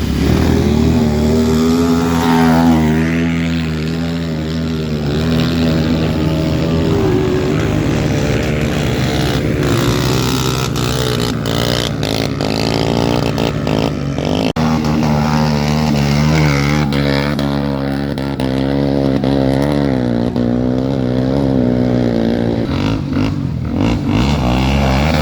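Off-road trail motorcycle engines running, their pitch rising and falling as they are revved and let off. There is a brief drop and an abrupt change about halfway through.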